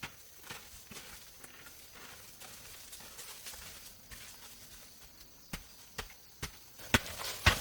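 Scattered light knocks and taps with a quiet stretch between them; the knocks come sharper and louder near the end.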